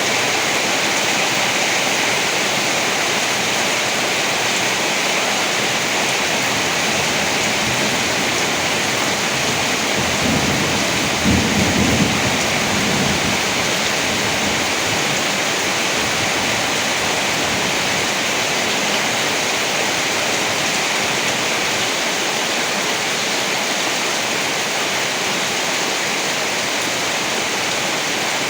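Steady heavy rain, with a brief low roll of thunder about ten seconds in.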